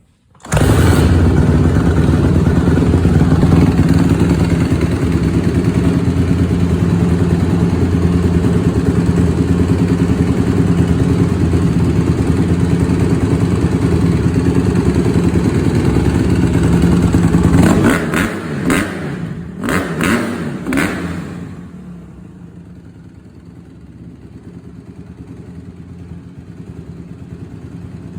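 Honda CRF150R dirt bike's single-cylinder four-stroke engine running steadily after a carb clean and tune-up, then blipped a few times about two-thirds of the way through before settling to a much quieter idle.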